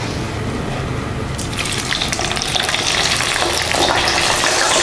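Chunks of boiled beef liver frying in hot oil: a steady sizzle with spattering crackles that grows louder and fuller about a second and a half in.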